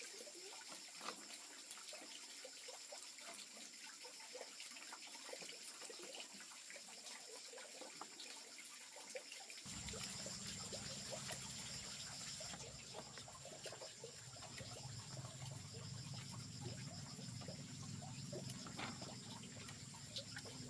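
Faint trickling water with many light clicks and small splashes. About ten seconds in, a steady low hum joins it.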